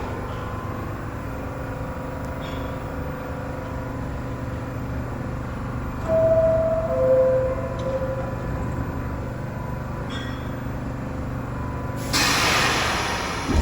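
New York City Subway train standing at the platform with a steady low hum. About six seconds in, the two-note descending door chime sounds, signalling the doors are about to close. Near the end a loud air hiss bursts out.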